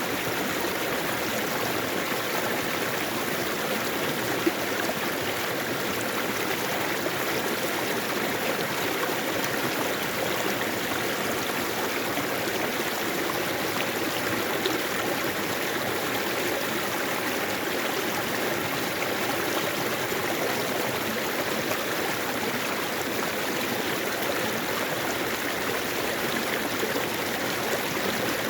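Mountain valley stream flowing steadily, an even rush of water.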